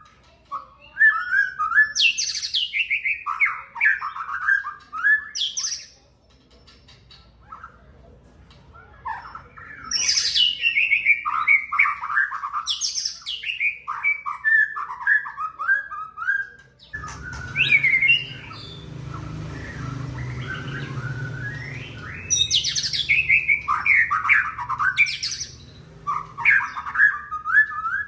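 White-rumped shama singing loud bursts of quick, varied whistled phrases with upward sweeps, with a brief lull about a quarter of the way in. A low steady hum comes in suddenly past the middle.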